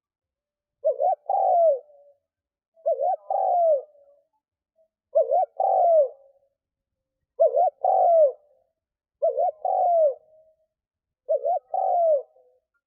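Decoy spotted dove cooing: six repeated phrases about two seconds apart, each two short notes followed by a longer arching coo.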